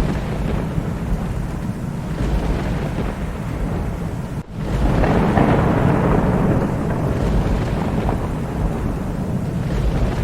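Thunderstorm: rolling thunder rumbling over steady rain. The sound drops out for an instant about four and a half seconds in, then swells into a louder peal of thunder that fades back over a couple of seconds.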